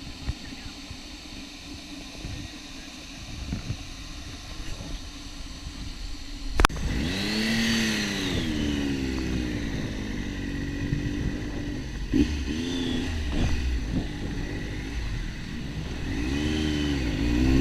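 Motorcycle riding with steady wind and road noise at first. A sharp click comes about six and a half seconds in, and after it the engine is heard clearly and louder, its pitch rising and falling again and again as the throttle is opened and eased.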